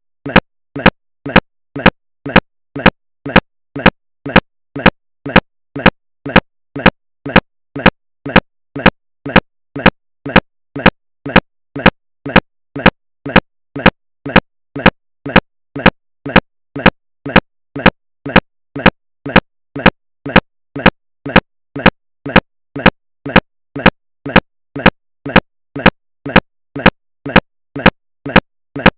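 Steady, evenly spaced ticking: a loud click alternating with a softer one, several a second, keeping an unchanging beat.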